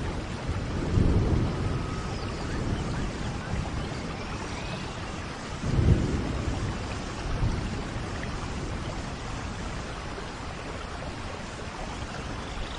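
Tropical rain falling steadily, with two low rumbles of thunder, one about a second in and a louder one about six seconds in, and a few faint bird chirps.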